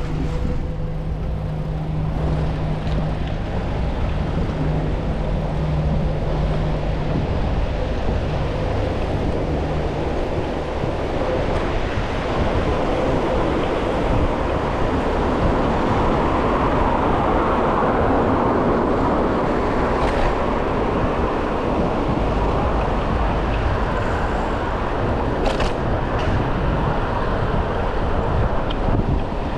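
City road traffic heard from a moving bicycle: a continuous rumble of engines and tyres. A steady engine hum fades out about a third of the way in, and the noise swells louder in the middle.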